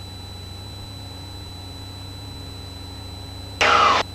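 Cessna 172's piston engine and propeller droning steadily in the cockpit during slow flight, with a thin steady high tone over it. Near the end a brief, loud sound lasting about half a second, falling in pitch, cuts in.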